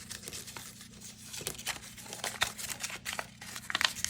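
Folded slip of paper being unfolded by hand: a run of short crinkles and rustles, the loudest a few seconds in.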